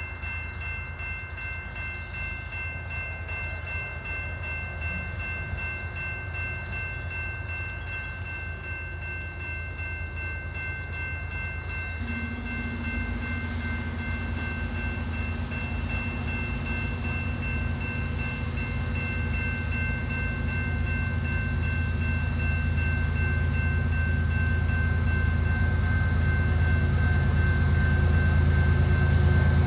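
Approaching Canadian Pacific freight train led by a GE ES44AC diesel locomotive: a low rumble growing steadily louder as it nears. Steady high tones run through most of it, and a lower steady tone joins about twelve seconds in.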